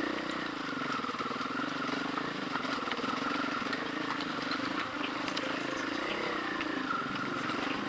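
Off-road motorcycle engine running at low, fairly steady revs, its pitch rising and dipping a little, with scattered small clicks and knocks.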